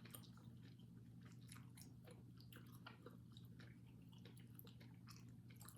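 Faint chewing of a sticky, chewy snack, heard as soft wet mouth clicks and smacks scattered irregularly, over a low steady background hum.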